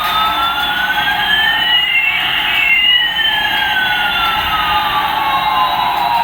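Electronic siren sound effect: two tones gliding slowly in opposite directions, one rising and one falling, crossing about halfway through.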